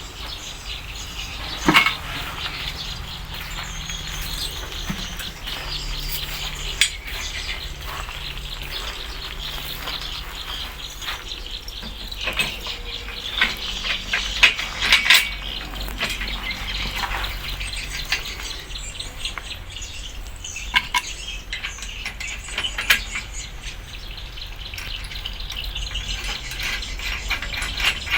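Irregular metallic clinks and taps, as of hand tools and metal parts being handled, over a steady low hum.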